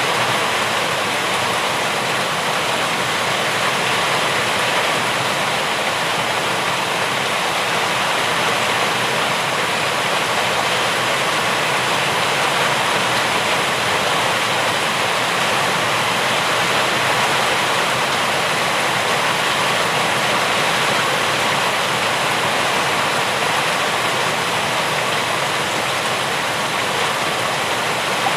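Steady rain falling: an even, unbroken hiss of water that neither builds nor fades.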